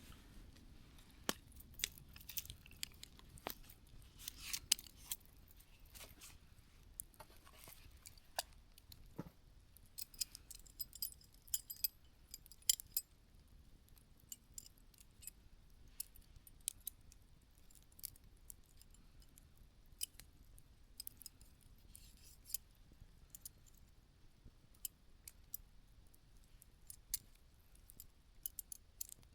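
Wood campfire burning down to embers, crackling with scattered sharp pops and ticks, busiest in the first half and sparser later.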